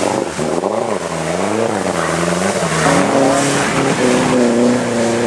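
Off-road 4x4's engine revving as it ploughs through deep muddy water. The revs surge up and down for the first couple of seconds, then hold at a steadier, higher pitch.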